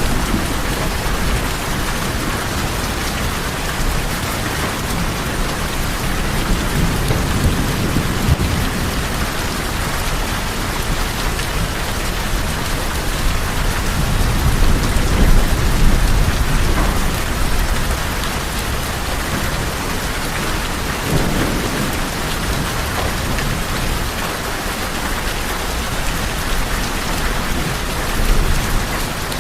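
Steady rain falling on tin roofs, a dense even patter, with a low rumble of thunder that swells about halfway through.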